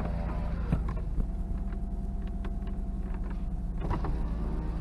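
Power window motor of a 1990 Nissan 300ZX twin turbo running for about three seconds, a steady whine that starts and stops with a click, over the steady idle of the car's twin-turbo V6.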